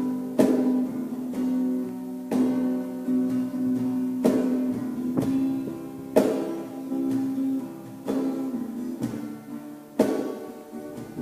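Instrumental music led by acoustic guitar: chords struck every second or two that ring and fade under a held low note.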